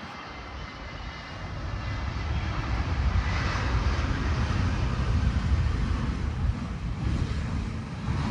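Airliner engines growing louder as the plane passes close on landing, loudest in the middle and easing toward the end, with gusty wind rumbling on the microphone.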